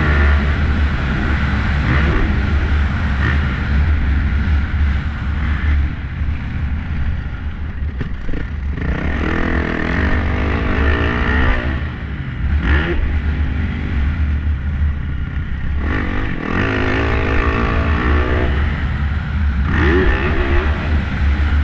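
Motocross dirt bike engine revving up and down repeatedly as it is ridden around a track, over a heavy low rumble of wind on the microphone.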